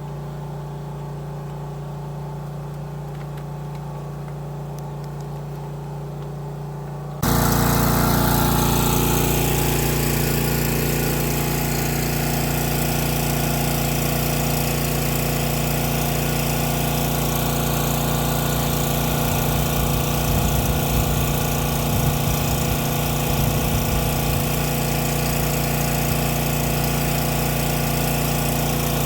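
An engine running steadily. About seven seconds in it suddenly becomes much louder, with a rushing noise over the steady hum.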